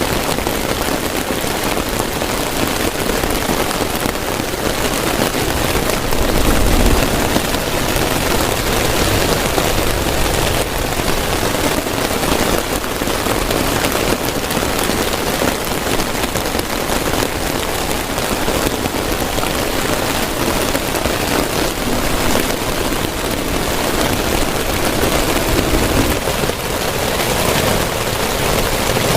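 Heavy rain falling steadily and hard, with a brief low rumble about seven seconds in.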